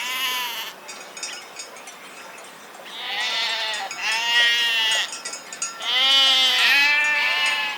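Sheep bleating about five times: a short bleat at the start, then two pairs of longer, quavering bleats.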